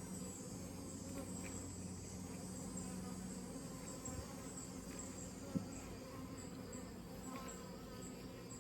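Honeybees flying around a hive entrance, a steady, fairly faint low buzzing hum. From about six seconds in a high chirp repeats about twice a second, and there is a single short click about five and a half seconds in.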